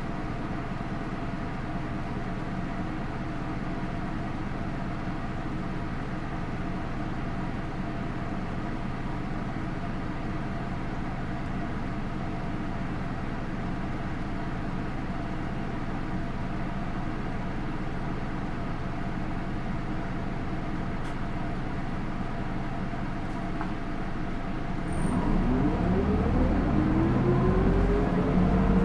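A Hino Rainbow II bus's Isuzu 4HK1-TCH four-cylinder turbo diesel idles steadily, with the bus apparently standing. About 25 s in it gets louder and its pitch climbs as the bus pulls away and accelerates through the Aisin automatic gearbox.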